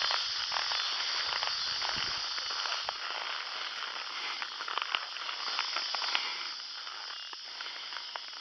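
Steady high-pitched insect chorus in brush, with many small crackles and snaps of twigs and leaves throughout.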